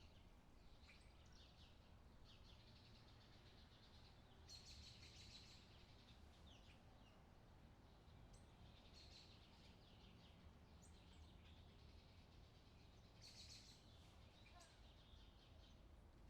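Faint birdsong: short high chirps come and go, with quick runs of chirps about four and a half seconds in and again near the end, over a low steady rumble.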